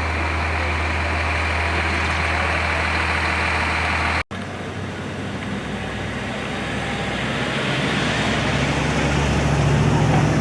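Large truck engine idling with a steady low hum. It cuts off suddenly about four seconds in, and what follows is street traffic noise with an engine sound that grows louder toward the end.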